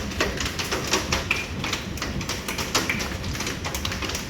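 Golf-ball-sized hail coming down hard, a dense, irregular clatter of hailstones striking hard surfaces and bouncing.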